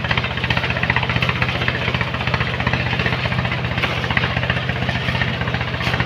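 Engine of a sand-mining machine running steadily at a constant speed, with a fast even pulsing and a rough hiss over the low drone.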